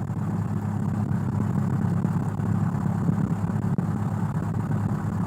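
Cessna 172's piston engine idling steadily on the ramp before taxi, a low even hum heard from inside the cockpit.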